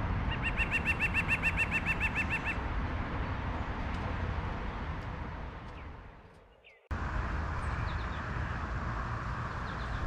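A bird calling a rapid series of evenly spaced notes, about eight a second for two seconds, over steady outdoor background noise. The background then fades to near silence and cuts back in as a different steady outdoor ambience.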